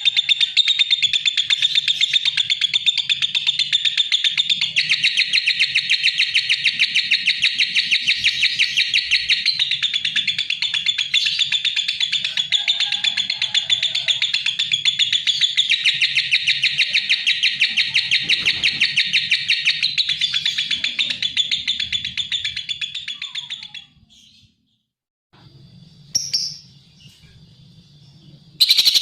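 Lovebird chattering: a fast, continuous stream of high chirps that breaks off about 24 seconds in, with one short chirp a couple of seconds later, before the chattering starts again near the end.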